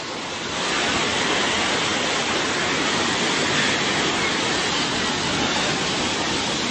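Steady, loud rushing storm noise, growing a little louder in the first second and then holding even.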